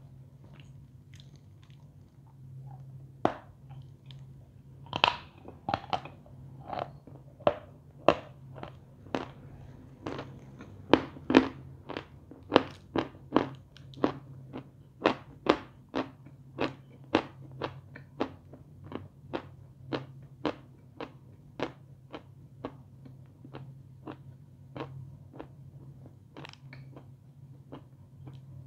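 Dry, crumbly edible chalk chewed steadily with close crisp crunches, about one and a half a second, over a faint steady low hum.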